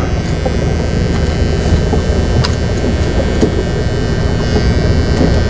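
Electric hair clippers buzzing steadily with a low, even hum.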